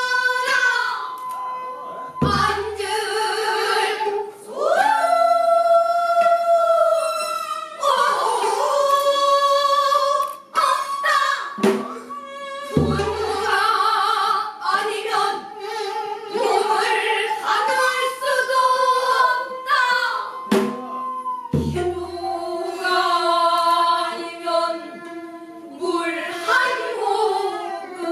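Several pansori singers singing together in long, sustained, bending lines, with a few deep strokes of the buk barrel drum marking the phrases.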